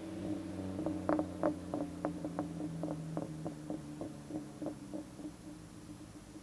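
VW Rabbit MKV's 2.5-litre five-cylinder idling through an AWE cat-back exhaust and USP test pipe. About a second in, a run of sharp exhaust crackles and pops starts, about four a second, and dies away over the next few seconds.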